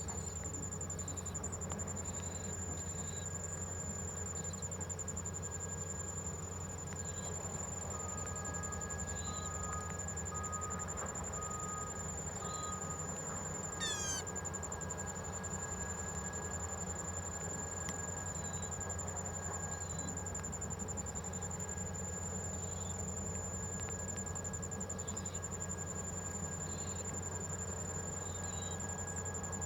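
Insects trilling steadily in a continuous high tone, with a few scattered short chirps. Partway through there is a short run of evenly spaced notes, then a quick upward-sweeping call.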